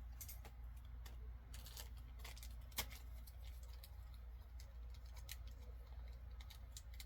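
Faint scattered clicks and light handling noises, with one sharper click about three seconds in, over a steady low hum: small enamel pins and their packaging being handled.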